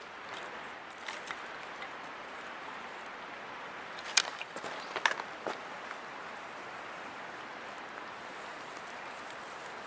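Steady outdoor hiss with a few short sharp knocks, the two loudest about four and five seconds in.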